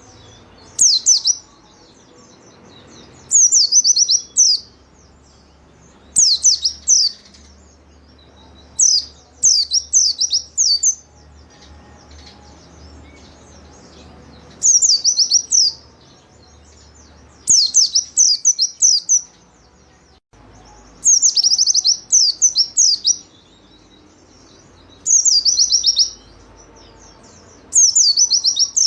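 White-eye (pleci) singing: short bursts of quick, high chirps, each dropping in pitch, repeated every two to three seconds.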